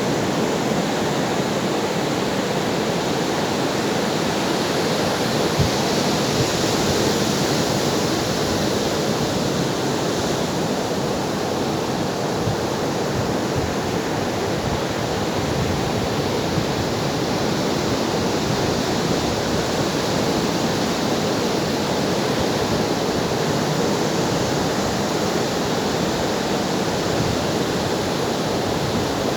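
Ocean waves washing in a steady, continuous rush of surf, swelling slightly about a quarter of the way through.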